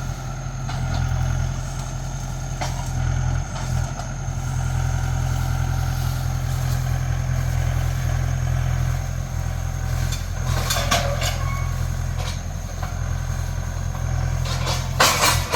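Tractor engine running steadily at a constant speed, with a few brief rattles about two-thirds of the way in and again at the very end.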